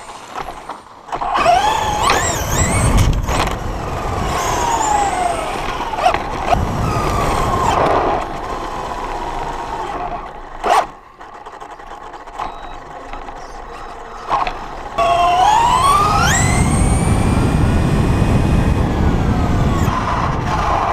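Electric motor of a radio-controlled truck whining as it revs, its pitch sliding up and down with the throttle, over a rumbling noise. The sound breaks off and changes several times.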